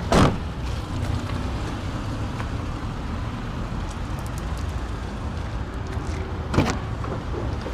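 Two loud clunks of the car's trunk fittings being handled, one right at the start and one near the end, over a steady low background rumble.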